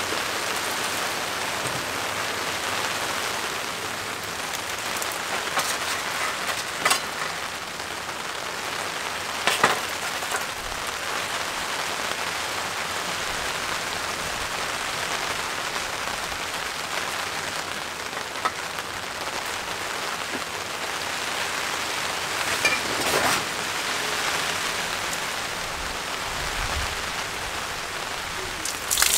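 Steady rain falling on a tarp shelter overhead, with a few scattered sharp knocks.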